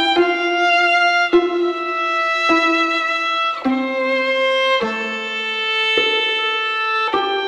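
Background music: a violin playing a slow melody of long held notes, moving to a new note about every second.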